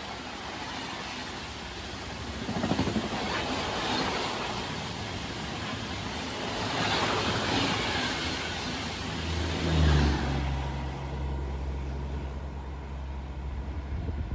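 Vehicles passing, with a rushing noise that swells three times, then an engine running with a steady low hum from about nine seconds in.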